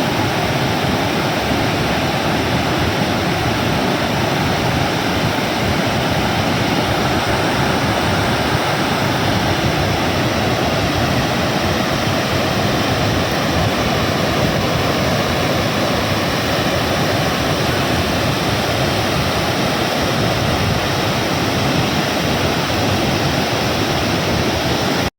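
Pykara Falls in rainy-season spate, the river crashing over rock cascades: loud, steady rushing of water, the falls "just simply roaring".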